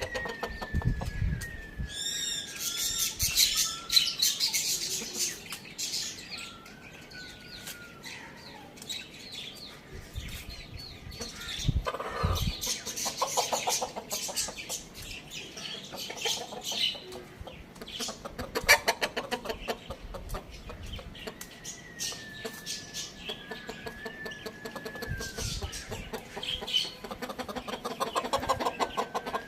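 Chickens clucking, with chirping bird calls and scattered short clicks and scuffs.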